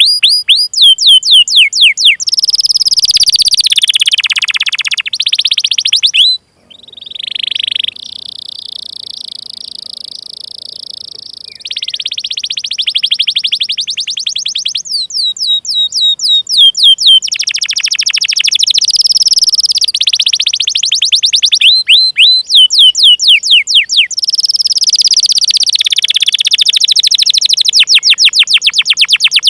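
Domestic canary singing a long song: rapid runs of falling 'cuit cuit' chirps at about five a second, alternating with rolling trills. It breaks off briefly about six seconds in, then holds a long, steady buzzing trill for a few seconds before the chirp runs resume.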